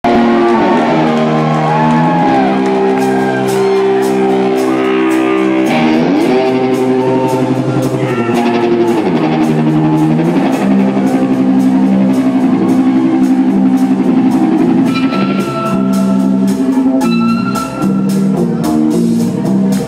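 Rock band playing: sustained electric guitar chords that slide in pitch every few seconds, over a steady beat of drums and cymbals.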